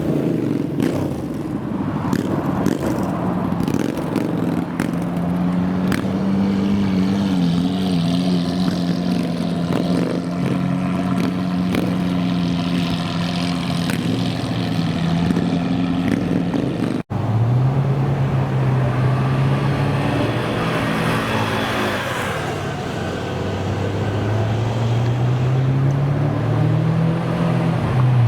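Supercar engines running at a steady, low idle. About two-thirds through there is an abrupt cut to another engine at a lower note, whose pitch climbs near the end as it revs up.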